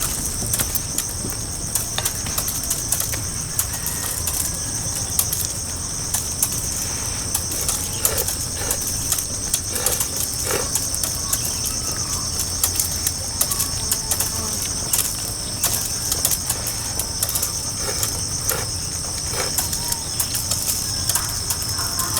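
Steady high-pitched chorus of insects, two even shrill tones held throughout, with scattered light clicks and knocks of something being handled.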